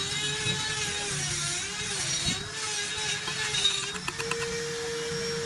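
Power tool motor running steadily, its pitch dipping and wavering as if under changing load, then settling to a steady, slightly higher pitch about four seconds in.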